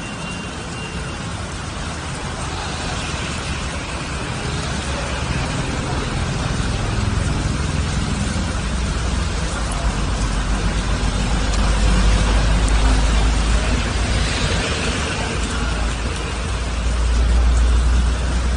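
Road traffic: a steady wash of noise from passing vehicles, with a low rumble that swells several times as heavier vehicles go by.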